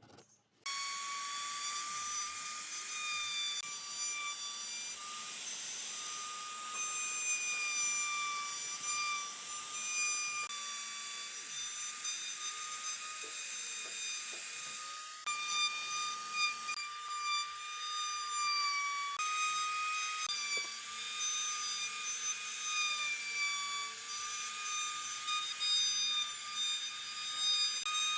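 Power tool motor running with a steady high whine and hiss, its pitch wavering slightly as it works. It starts suddenly about a second in and shifts abruptly in level several times.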